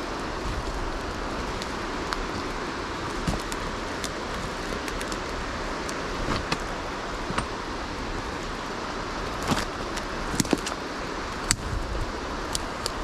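Steady rushing noise of a stream flowing, with scattered light clicks and taps over it.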